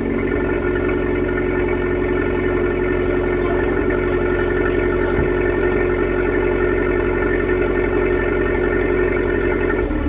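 Abarth 595 Turismo's 1.4-litre turbocharged four-cylinder engine and exhaust running steadily at a constant speed, with an even, unchanging note.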